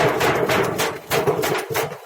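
Rapid, uneven chopping knocks of a blade striking a wooden board, about five a second.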